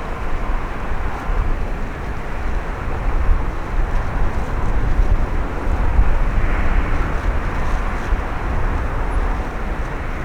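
Steady jet engine noise from a Boeing 737-800 airliner, mixed with heavy low wind rumble on the microphone.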